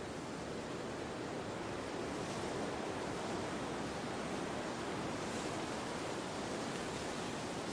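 Steady wind, an even rushing that swells slightly about two seconds in.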